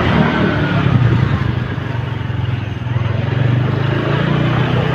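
A motor vehicle's engine running steadily at an even, low pitch.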